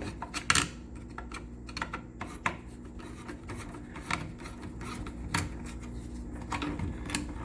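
Irregular small clicks, taps and scrapes of hand-tool work on electrical wiring: a screwdriver loosening the ground-wire terminal on a water heater. A faint steady hum sits underneath.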